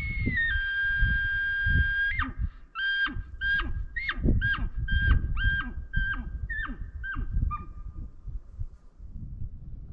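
Bull elk bugle blown on a Phelps gray diaphragm elk call: a high whistled note held until about two seconds in, then a run of about ten short chuckles at roughly two a second, fading out near the end. A low rumble runs underneath.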